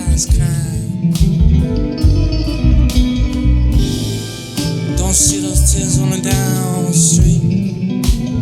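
Band playing a blues song live: guitar over bass and drums, with a vocal line in the mix.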